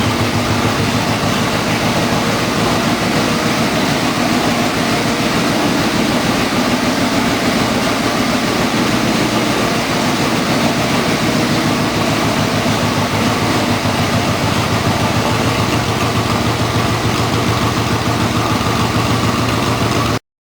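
2007 Yamaha Royal Star Tour Deluxe's V4 engine idling steadily through aftermarket bomber exhaust pipes fitted with mid-tone baffles; the sound cuts off abruptly near the end.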